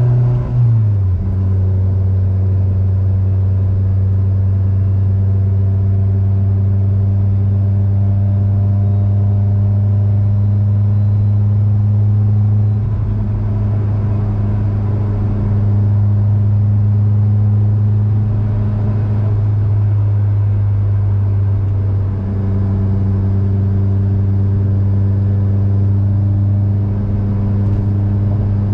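Mazdaspeed6's turbocharged 2.3-litre four-cylinder heard from inside the cabin. It drops in pitch with an upshift about a second in, then drones steadily while the car cruises at part throttle.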